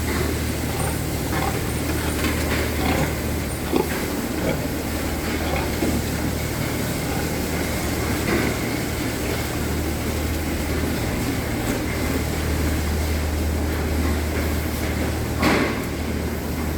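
Steady low mechanical hum of pig-barn machinery, with scattered clanks and knocks and a louder rush near the end.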